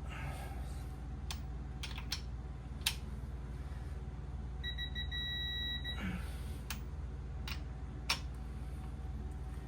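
A single high electronic beep held for about a second and a half midway, over a steady low hum, with a handful of short sharp clicks of hand tools scattered through it.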